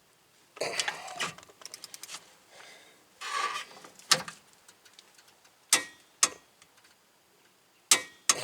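Metal hand tools working the mounting bolts of a car's rear wheel hub bearing: scrapes and clinks, a quick run of light ticks about a second and a half in, and several single sharp metallic clanks later on.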